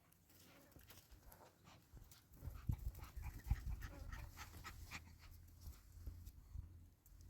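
A dog panting close by, with a low rumble and a few dull thumps starting about two and a half seconds in.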